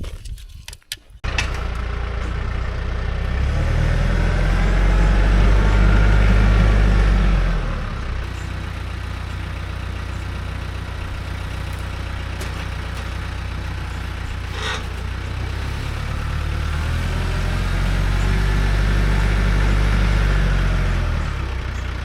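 An engine running steadily, which starts abruptly about a second in and grows louder twice for a few seconds each time, as if revved under load. There is a single sharp knock about two-thirds of the way through.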